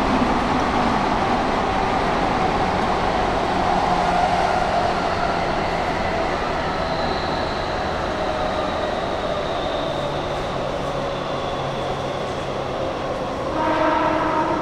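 Keihan 8000-series electric train running: a steady rumble of wheels and running gear with faint tones slowly falling in pitch. Near the end comes a louder pitched sound lasting about a second.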